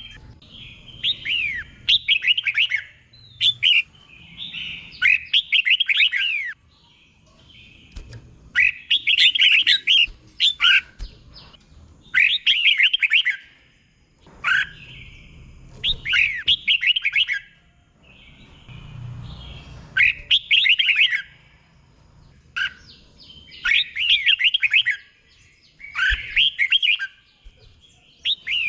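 Red-whiskered bulbul singing: short, bright phrases of quick, rising and falling whistled notes, repeated every couple of seconds with brief pauses between.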